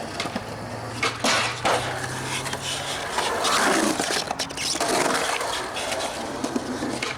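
Skateboard wheels rolling, with several sharp clacks of the board.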